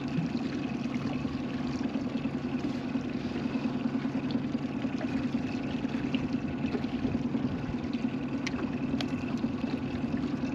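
Boat motor running steadily at trolling speed, a constant fluttering low hum.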